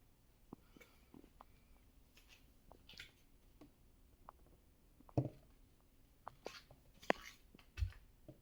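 Quiet handling sounds of objects being moved about: scattered light clicks, taps and rustles, with a sharper knock about five seconds in and a soft low thud near the end.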